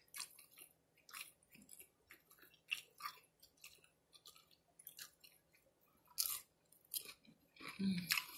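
Close-up chewing and crunching of a crispy fried taco cup filled with chicken and melted cheese. It comes as short, irregular crackly crunches between quieter pauses.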